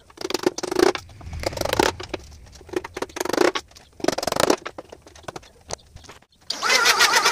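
A run of irregular scraping and rubbing strokes of uneven length, then a sustained wavering whine that starts about six and a half seconds in.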